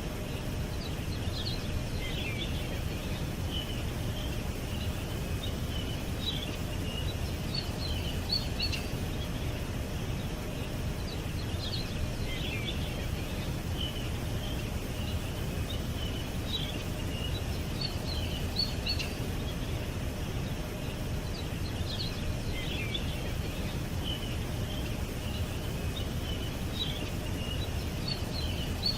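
Wild birds chirping and twittering in short high phrases that come every few seconds, over a steady low rumble of background noise.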